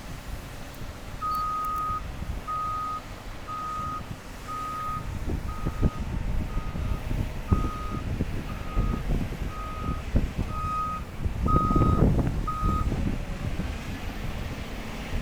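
Backup alarm on heavy earthmoving equipment beeping about once a second, a dozen beeps, over the steady low rumble of diesel engines. A few knocks come through, and the engine rumble swells near the end as the beeping stops.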